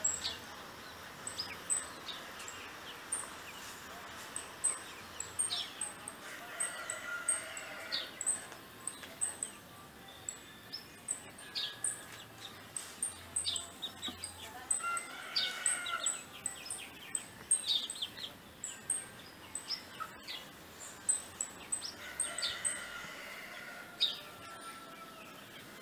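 Wild birds calling and singing, including a rufous-bellied thrush (sabiá-laranjeira): quick high chirps repeat throughout, mixed with short falling notes. Three longer, lower warbled phrases come about a quarter of the way in, past the middle and near the end.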